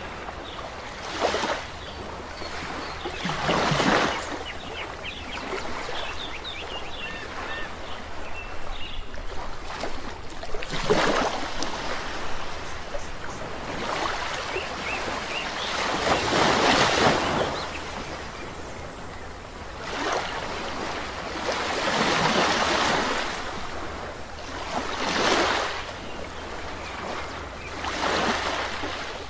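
Sea waves breaking on a shore, each one swelling up and washing back every few seconds. Faint bird chirps come through between about four and ten seconds in.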